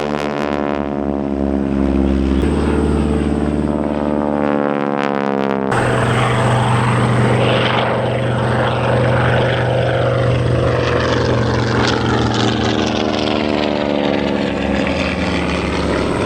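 Radial-engined propeller warbirds, T-6 Texans and TBM Avengers, running loud and steady overhead, the engine drone shifting in pitch as the aircraft pass. The sound changes abruptly twice early on.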